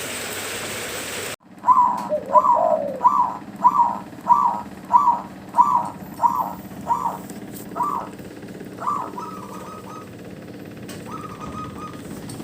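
Zebra dove (perkutut) cooing: a fast run of about a dozen short, evenly spaced coos, roughly one and a half a second, then a few longer broken notes. Before it, a steady hiss cuts off abruptly just over a second in.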